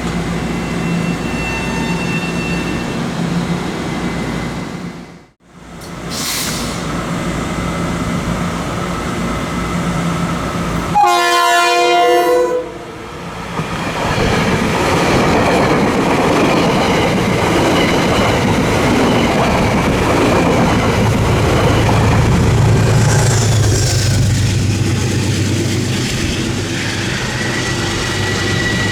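Trains running past on the track with steady wheel-on-rail noise. About eleven seconds in, one train horn blast of about a second and a half, then a train passing close by with a loud, even rush and a low rumble. The sound drops out briefly about five seconds in.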